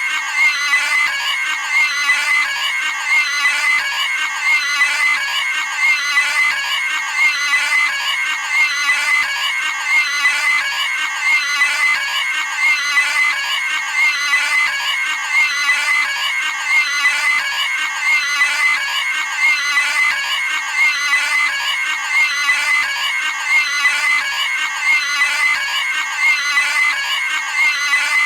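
A cartoon pig's high-pitched scream, the same clip repeated back to back about every second and a half without a break.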